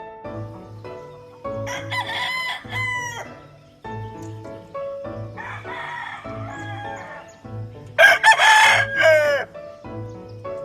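Gamefowl rooster crowing twice, once about two seconds in and again, louder, about eight seconds in, over background music with a steady beat.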